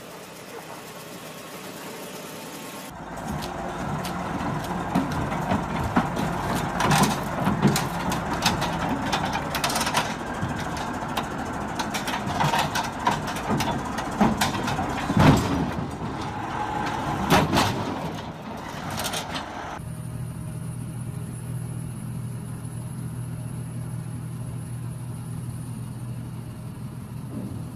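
Heavy machinery running, with many sharp clanks and knocks through the middle, then a steady low engine drone from about two-thirds of the way in.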